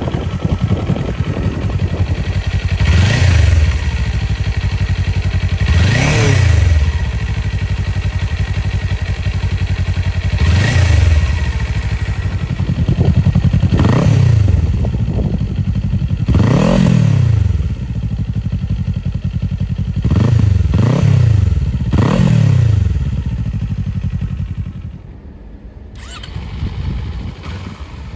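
An engine revved again and again in short blips. The pitch rises and falls about every three seconds, and the engine drops back to a quieter idle near the end.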